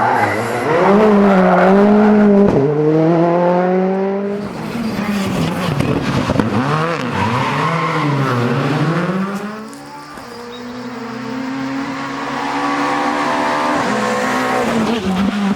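Rally cars' engines running hard on a stage, the pitch climbing through the gears and dropping sharply on each lift-off and shift. About ten seconds in one car's sound fades away and another's engine note rises steadily towards the end.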